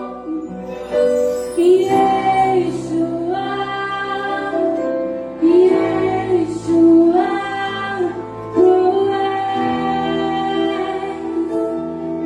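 Orchestra and a female voice performing a slow worship song: a melody with vibrato over held low notes.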